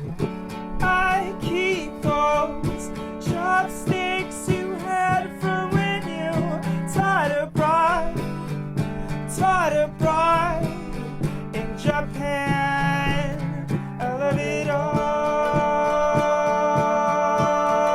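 A band playing live: strummed acoustic guitar under a sung melody. From about 15 s in, several voices hold long, steady notes in harmony.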